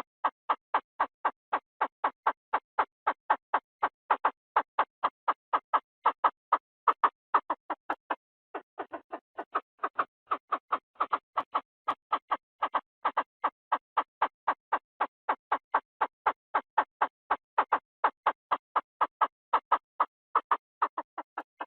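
Chinese francolin calling: a long, rapid series of short, clipped notes, about three a second. The notes break off briefly about eight seconds in, then resume softer and build back up.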